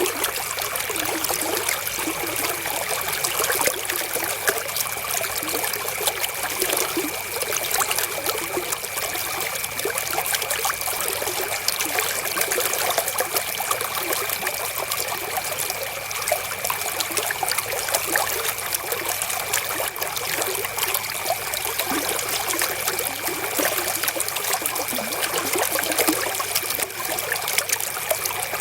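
Flowing river water, a steady trickling rush with many small splashes and no let-up.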